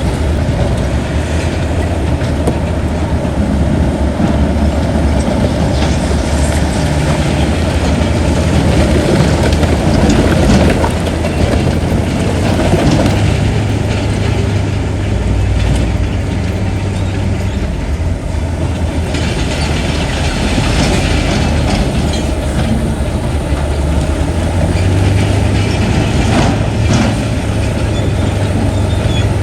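Crawler bulldozer's diesel engine running steadily under load, with the rattle and clank of its steel tracks.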